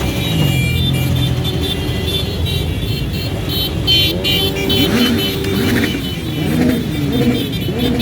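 Motorcycles riding past in a parade, engines running and revving, with the engine pitch rising and falling again and again in the second half.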